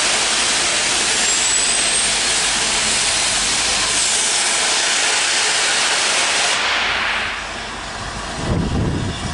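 Steam locomotive Flying Scotsman, an LNER A3 Pacific, letting off steam: a loud, mighty hiss that starts suddenly, holds steady for about six seconds, then dies away, leaving a lower rumble near the end.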